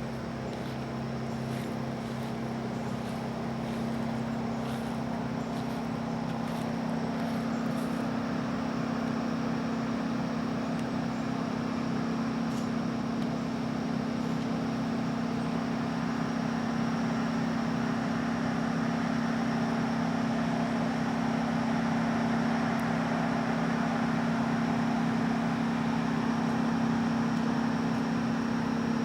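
A steady mechanical hum over a noisy rush, like a running engine or motor, slowly growing louder, with a few faint ticks in the first several seconds.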